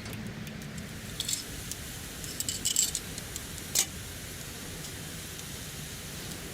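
Light metallic clinking in a few short clusters, about a second in, near the middle and once more a little later, over a steady low background noise.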